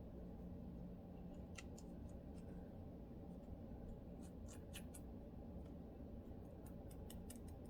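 Faint scratching on a dry, flaky scalp: short, sharp scratchy strokes in small clusters, a few early, a group in the middle and a quicker run near the end, over a steady low hum.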